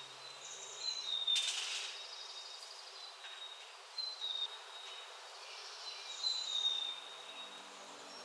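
Forest ambience with a bird singing thin, high whistled notes, one every second or two, each dipping slightly in pitch. There is a brief rustle about a second and a half in.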